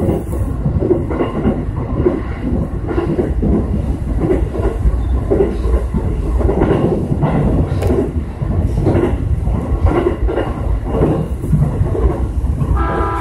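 E233-series electric commuter train running at speed, heard from behind the driver's cab: a steady low rumble with the repeated clack of wheels over rail joints.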